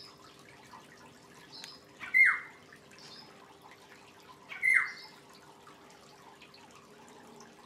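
Black-headed oriole calling: two loud, downward-sliding calls about two and a half seconds apart, each opening with a sharp click. Faint short high chirps come between them.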